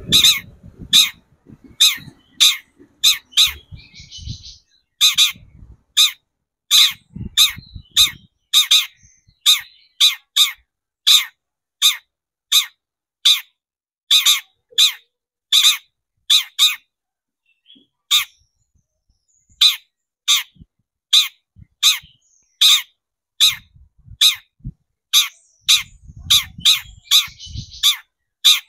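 Long-tailed shrike giving short, harsh calls over and over, about one or two a second, with a brief pause just past the middle: the agitated calling of a cendet lure recording.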